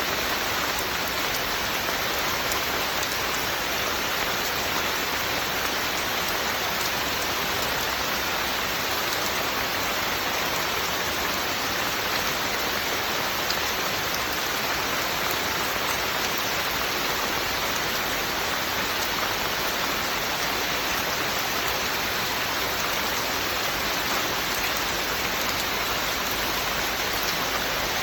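Steady, continuous rain falling, with fine scattered drop patter on surfaces.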